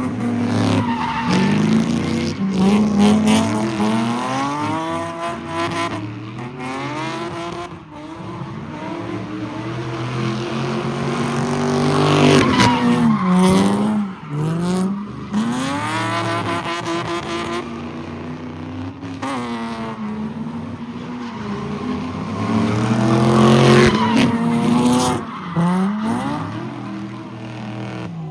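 Car engine revving hard again and again, its pitch climbing and dropping every few seconds, with tire squeal as a car spins in a car pit.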